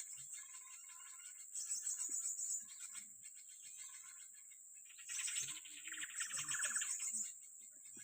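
Small songbird chirping, then a loud rapid trill about five seconds in that falls in pitch near its end, over a steady high buzz of insects.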